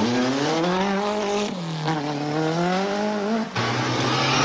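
Rally car engine revving hard on a gravel stage, its pitch swinging up and down, with a gear change about a second and a half in. Near the end the sound cuts to a steadier, lower engine note from another car, under a wash of noise.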